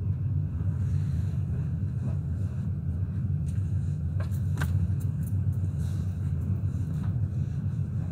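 Passenger train running along the line, a steady low rumble of the wheels and carriage, with a few sharp ticks about halfway through.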